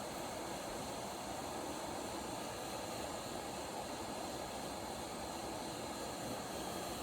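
Hot air rework station blowing steadily on a flux-covered chip to reflow its solder joints, a constant airy rush with a faint high whine.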